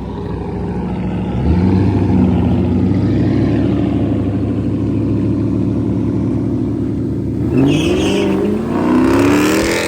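Car engine accelerating hard, loud: its pitch climbs about a second and a half in and holds high, then rises again in a second pull near the end.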